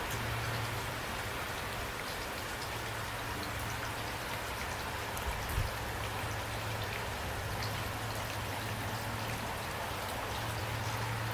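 Steady rain falling, an even patter of many drops, with a brief low thump a little past halfway.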